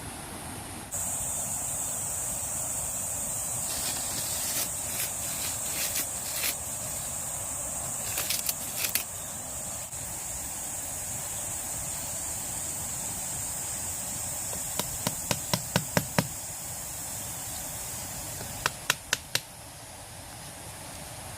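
Sharp knocks in short quick runs, about six a second in the longest run, over a steady high hiss.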